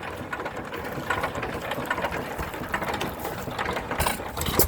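Antique stationary gas engine, a 5-horsepower Alpha De Laval, running with a rapid mechanical clatter of clicking gear. A few heavier knocks come through, the loudest near the end.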